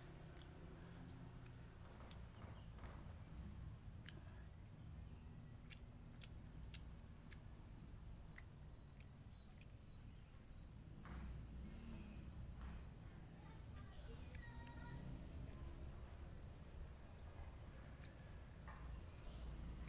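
Steady high-pitched chirring of crickets, with scattered faint clicks and taps over it.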